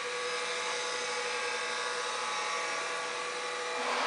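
Harig 618 surface grinder's spindle motor and grinding wheel running steadily, a continuous whine made of several steady tones.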